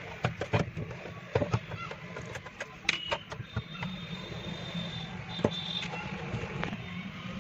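Scattered light clicks and knocks at irregular intervals over a steady low hum, with a few short high tones.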